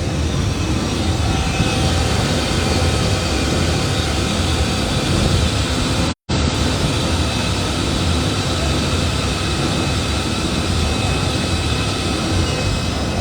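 Steady, loud mechanical din, like engines running, with no rises or falls in pitch; it cuts out for a split second about six seconds in.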